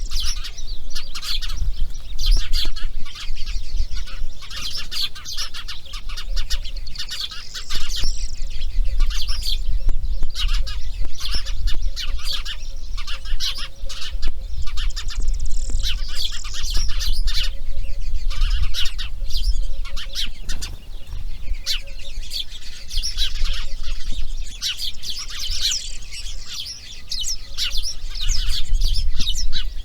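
Birds calling: a dense, continuous stream of rapid high chirps and chattering ticks, over a low rumble.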